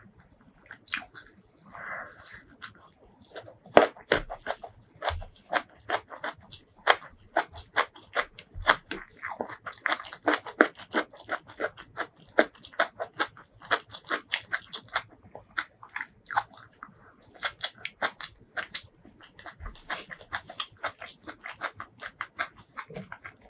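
Close-miked eating: a person chewing handfuls of rice mixed with spicy curry, a steady run of quick, sharp wet mouth clicks.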